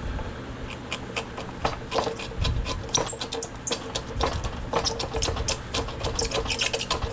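Wood chisel paring and scraping the bottom of a notch cut in a wooden post to flatten it: a quick, irregular run of scrapes and taps, over a faint steady hum.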